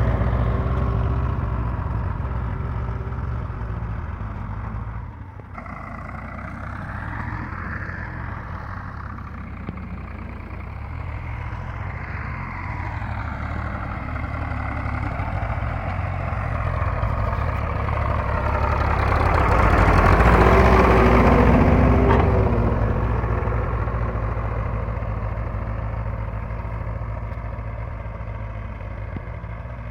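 Ford 3000 tractor's three-cylinder engine running steadily as it works the field. It grows louder to a peak about two-thirds of the way through, then fades.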